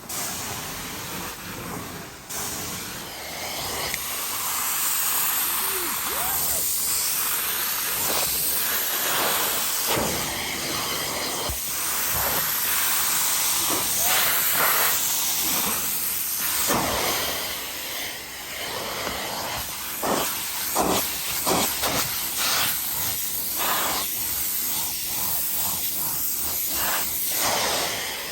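Carpet-cleaning wand spraying and sucking water from a rug, the extractor's vacuum hose giving a steady loud hiss. Repeated short surges and gurgles come through it, more often in the second half.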